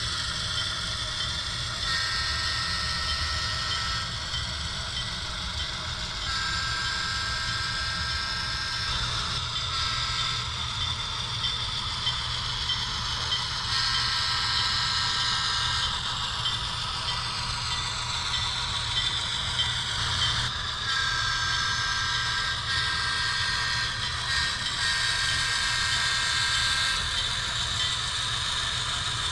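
HO-scale model 44-tonner switcher locomotive running during a switching move: a steady low rumble with a whine that glides up and down in pitch as it changes speed.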